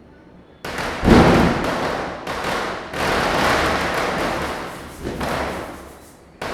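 Diwali firecrackers going off: a loud bang about a second in, then several seconds of dense, continuous cracking with fresh surges, which stops suddenly just before the end, followed by one more sharp crack.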